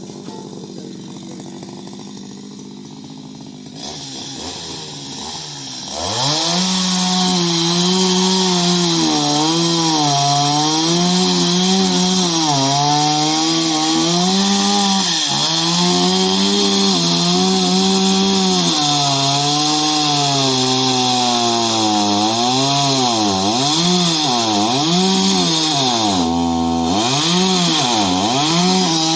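Chainsaw running, quieter for the first few seconds, then at full throttle from about six seconds in. Its engine pitch keeps dipping and climbing back as the chain bogs down in the wood, with one deeper dip near the end.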